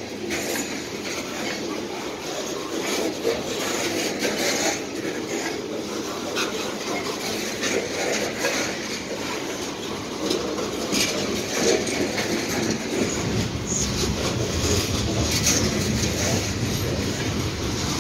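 Steel coal hopper cars of a long freight train rolling past close by: a steady rattle and rumble of wheels on rail, broken by sharp clicks and clanks. The low rumble grows heavier about two-thirds of the way through.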